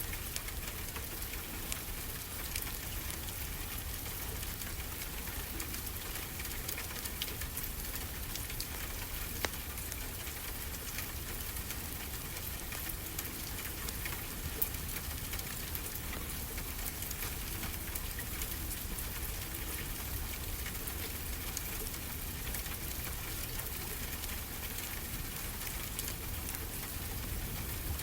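Wood fire crackling in a fireplace: many small sharp pops scattered over a steady hiss, with a steady low rumble underneath.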